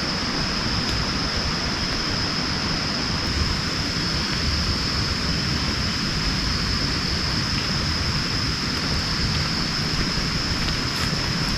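Steady heavy rain falling, an even rushing hiss, with a steady high-pitched tone running over it.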